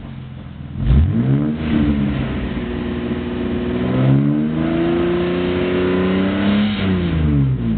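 Toyota Supra MK4's straight-six engine revving through a Motoria aftermarket exhaust: a quick blip about a second in, then a longer rev from about four seconds that holds high for a couple of seconds before falling back near the end.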